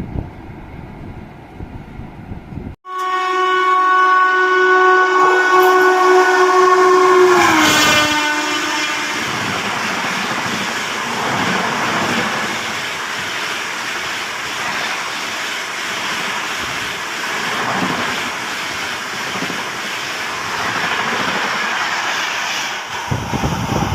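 An Indian Railways train passing at speed. Its horn sounds suddenly about three seconds in and holds for about four seconds, then drops in pitch as the train goes by. The rushing, clattering noise of the coaches then runs on for about fifteen seconds.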